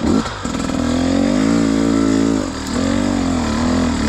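Dirt bike engine running under throttle, its pitch wavering up and down, dipping about two and a half seconds in and then picking up again.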